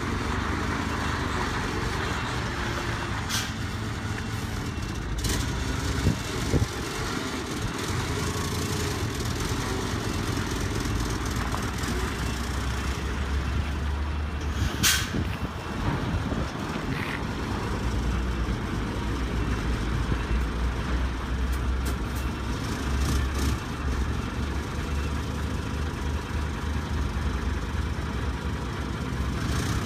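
Isuzu concrete mixer truck's diesel engine running steadily at idle, with a few short sharp clicks or hisses, the strongest about fifteen seconds in.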